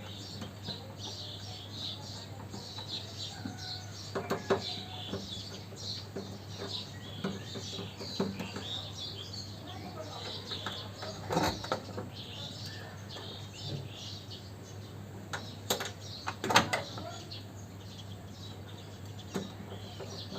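A few sharp knocks, with small birds chirping and a steady low hum in the background.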